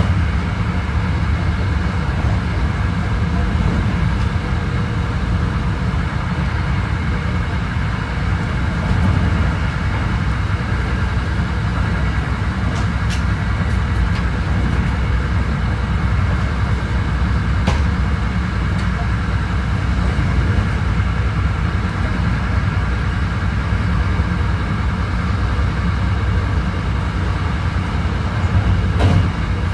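Hankyu 9300 series electric train running at a steady speed, heard from inside the car: a steady rumble of wheels on rail with a few faint tones held level above it, and a few light clicks.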